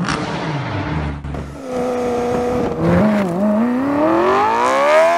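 BMW E9x M3's V8 engine accelerating hard, its pitch climbing steadily, with short dips in pitch about three seconds in and again near the end.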